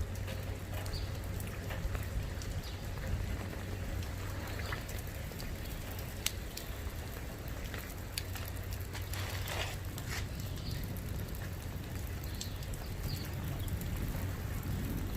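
Steady rain falling during a thunderstorm, with scattered sharp taps of drops striking nearby surfaces, over a low steady hum.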